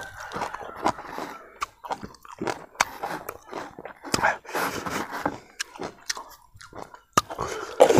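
Close-up mouth sounds of a person eating: chewing, lip-smacking and wet clicks of licking smoked king chili powder off the fingers, in irregular bursts.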